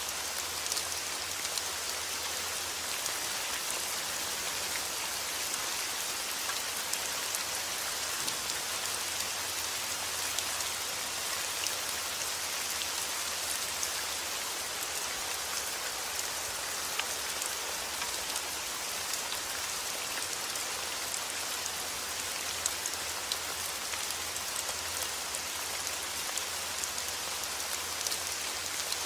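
Steady heavy rain falling outdoors, a dense even hiss dotted with the patter of individual drops striking surfaces.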